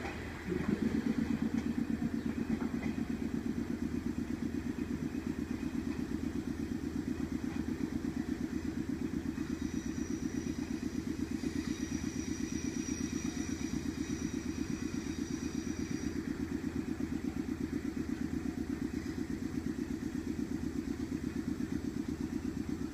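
Train machinery running close by with a rapid, even pulse that starts abruptly about half a second in and then holds steady; a faint high whine sounds briefly midway.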